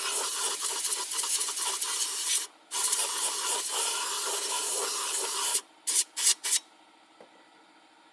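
A steady rough rubbing and rasping noise with many fine strokes. It breaks off briefly about two and a half seconds in, then ends after three short bursts, leaving near silence.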